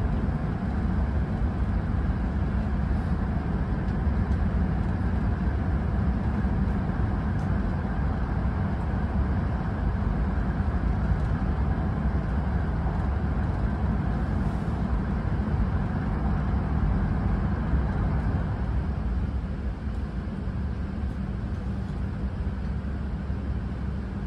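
Hokkaido Shinkansen train running, heard inside the passenger cabin as a steady low rumble with a hiss over it. It turns slightly quieter near the end.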